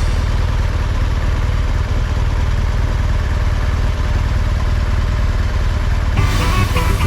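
Motorcycle engine running with a steady low rumble under an even rushing noise; music comes in about six seconds in.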